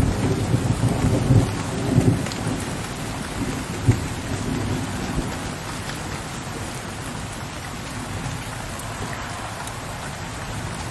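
Steady rain with a low rumble of thunder that fades away over the first few seconds.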